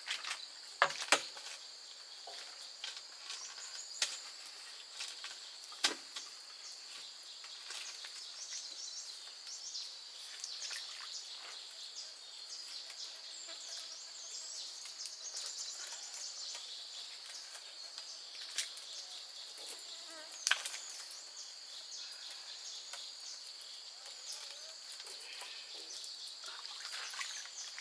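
Steady, high-pitched insect chorus, with a few sharp knocks scattered through it.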